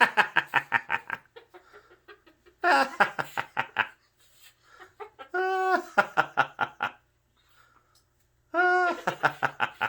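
A cockatoo imitating human laughter: four bouts of quick, clucking "ha-ha-ha" pulses, about eight a second. The later bouts open with a short, held, pitched note.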